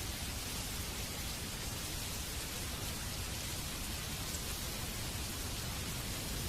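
Steady rain falling, an even hiss of drops with no distinct events.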